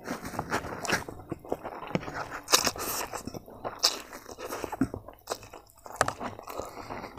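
A person chewing a mouthful of spicy ramen noodles close to the microphone, with irregular wet smacks and sharp mouth clicks.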